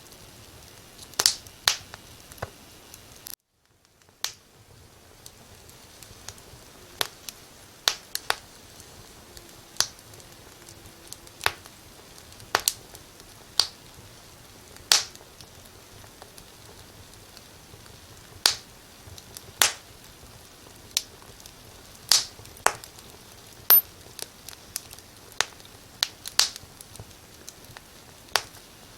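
Wood fire crackling: irregular sharp pops and snaps, about one a second, over a faint steady hiss. About three seconds in the sound drops out completely for a moment, then fades back in.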